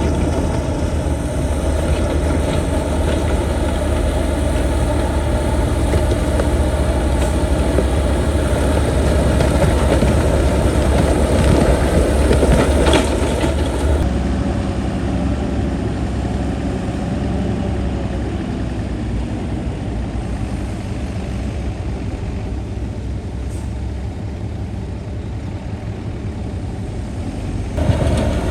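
Heavy diesel engine of earthmoving machinery running, a steady low rumble. In the first half it is louder, with scattered knocks and clatter. About halfway through it cuts abruptly to a quieter, steadier engine run.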